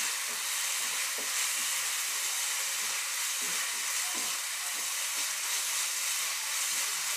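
Ground red-chilli paste sizzling steadily in a hot pan as its water cooks off, the stage before the masala goes in. A few faint taps can be heard about a second in and again around three and a half and four seconds.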